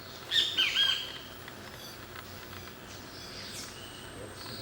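A bird calling at a feeding spot: a loud burst of a few short, arching high notes in the first second, then a single fainter note about three and a half seconds in.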